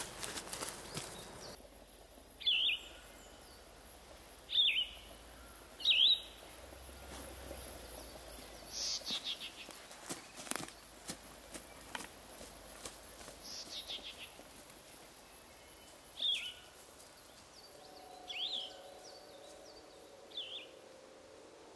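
A bird calling: single short, sharp chirps every couple of seconds, over a faint steady outdoor background, with a few soft clicks in the middle.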